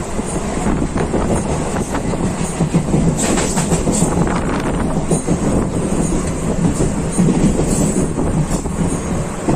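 Electric local train running between stations: a steady, loud rumble of wheels on the track with irregular clacks over rail joints and faint wheel squeal.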